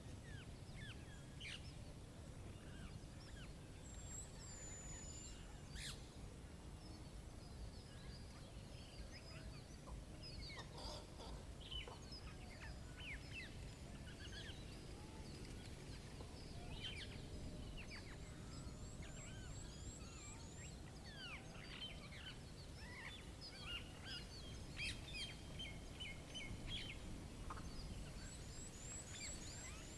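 Several wild birds chirping and calling on and off, with a quick high trill heard twice, over a faint, steady low background rumble.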